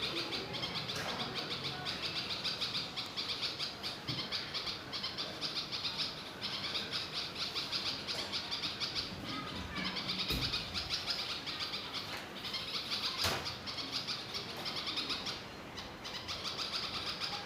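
Small nestling birds chirping rapidly and almost without pause, in runs of a few seconds with short breaks. Two knocks sound about 10 and 13 seconds in.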